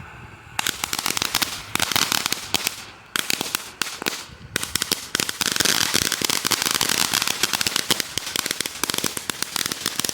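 Small consumer firework crackling: a dense, rapid run of sharp little pops that starts about half a second in, dips briefly twice, then keeps going.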